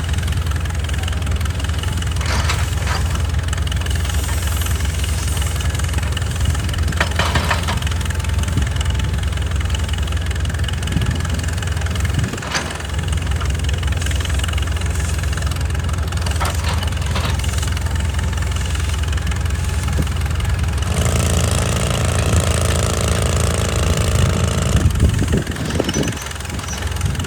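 Excavator's diesel engine running steadily, with a few sharp knocks now and then. Near the end a higher steady whine joins the engine for a few seconds, then stops.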